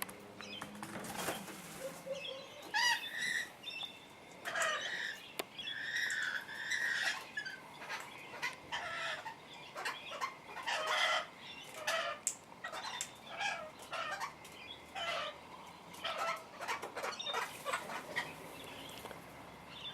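Parrots calling in short, repeated chirps and squawks, scattered all through, with wing flapping.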